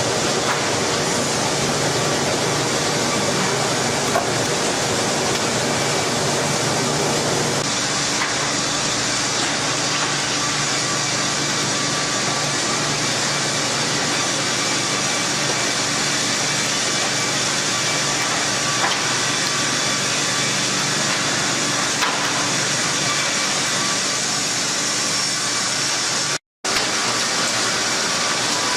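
Sawmill machinery running with a loud, steady, noisy din and a faint hum, the mix shifting about a quarter of the way in. It cuts out for a moment near the end.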